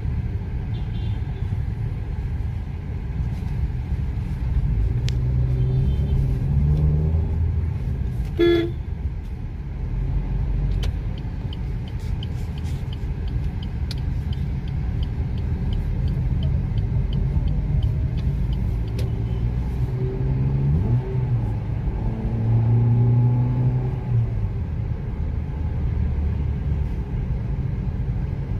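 Maruti Ignis's 1.2-litre four-cylinder petrol engine and road noise heard from inside the cabin while driving, the engine note rising as it speeds up now and then. A short horn toot sounds about eight seconds in, and a light ticking comes two or three times a second for several seconds midway.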